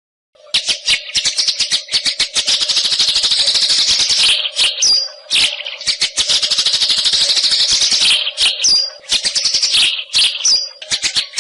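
White-rumped shama (murai batu) song, with a fast, dense chattering rattle and a few short high whistles, starting about half a second in. A steady low hum runs underneath.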